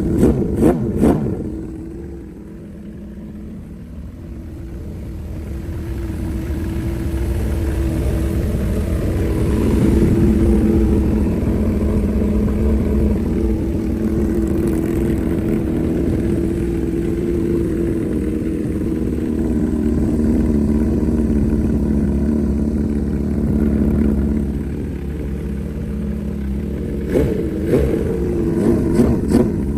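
Homemade four-cylinder engine running, building up speed over the first several seconds and then running steadily. A few sharp knocks come near the start and again near the end.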